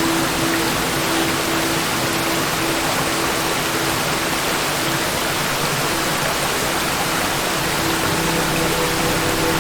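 A waterfall: falling water rushing in a steady, unbroken roar.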